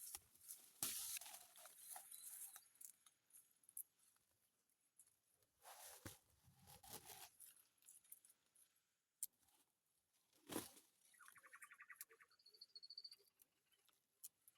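Near silence with faint scattered rustles and clicks, and a short rapid buzzing trill about eleven seconds in.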